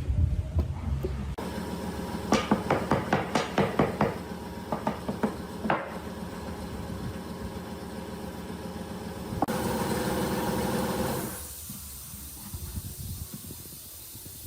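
Workshop sounds in edited segments. First comes a quick run of about ten sharp hammer-like knocks on wood, about five a second, then a few sparser knocks. Later a steady, louder noisy stretch cuts in briefly and gives way to a fainter hiss.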